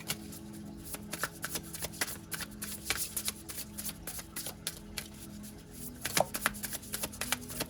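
A deck of oracle cards being shuffled by hand: a quick, irregular run of soft card clicks and slaps, loudest about six seconds in.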